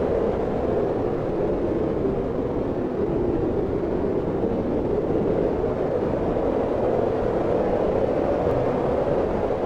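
Wind blowing steadily, a continuous rush whose pitch sinks a little and then rises again.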